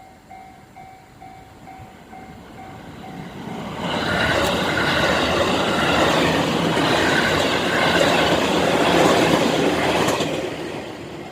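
Japanese level-crossing bell ringing in an even repeating ding; about four seconds in, a JR West 221 series electric train passes loudly over the crossing for about six seconds, wheels running on the rails, then fades while the bell keeps ringing.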